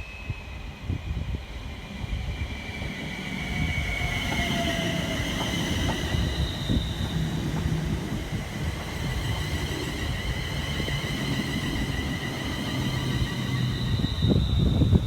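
A train running past on the track: a steady rumble of wheels on rail that builds about three seconds in, with high thin whining tones that slowly drift lower in pitch.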